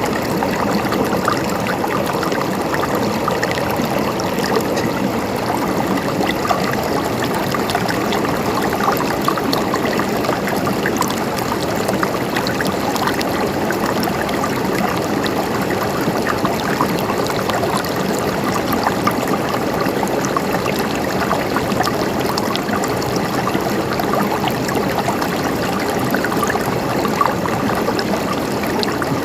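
River water flowing steadily over stones, a continuous rush with fine splashing and trickling.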